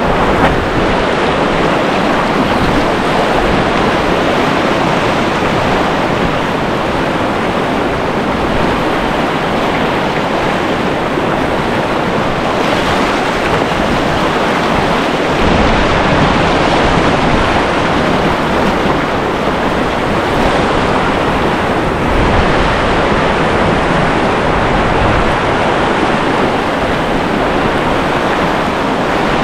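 Whitewater rapid rushing, loud and steady throughout.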